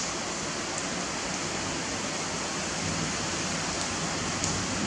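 Rain falling, a steady even hiss with a few faint clicks.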